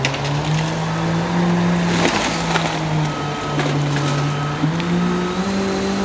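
Engine of tree-removal machinery running steadily, its pitch rising and falling slightly, with scattered knocks and a short spell of crackling about two seconds in.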